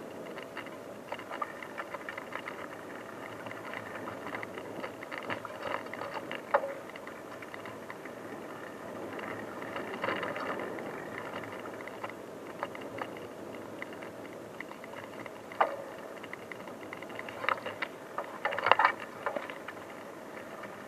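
Bicycle riding over a rough unpaved track: steady tyre and ride noise with frequent light rattles and clicks from the bike, and a few sharper knocks, the loudest near the end.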